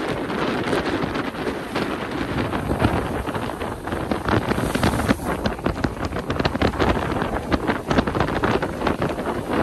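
Strong tropical-storm wind buffeting the microphone: a dense, unbroken rushing noise full of rapid sharp crackles and thumps.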